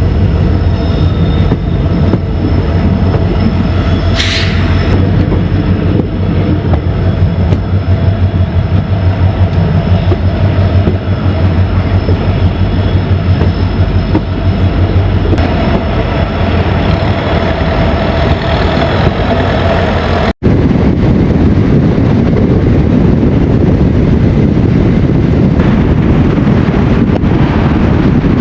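Indian Railways passenger train running along the track, heard from on board as a loud, steady rumble, with a brief wheel squeal about four seconds in. After a sudden cut about two-thirds of the way through, it turns to a more even rushing noise.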